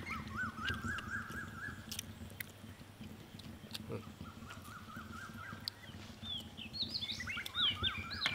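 Small birds calling: two runs of quick, repeated chirping notes, then a busier chatter of higher chirps near the end.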